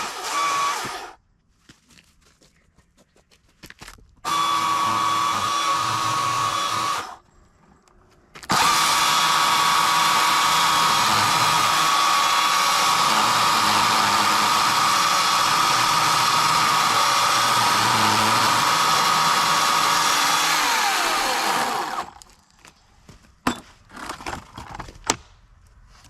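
EGO CS2005 56-volt brushless battery chainsaw running with a steady high whine while cutting firewood. It runs in three bursts: a short one, one of about three seconds, and a long one of about thirteen seconds that winds down with a falling whine. A few sharp knocks follow.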